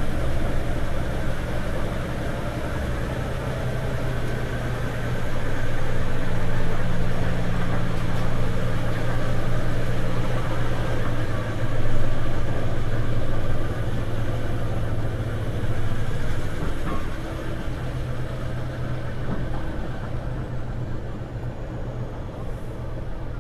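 A ferry's engines running with a steady low hum under an even rushing noise.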